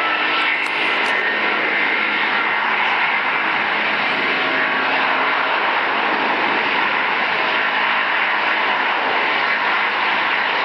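Airbus A330-300's twin jet engines at takeoff thrust: a steady, loud noise that holds level throughout.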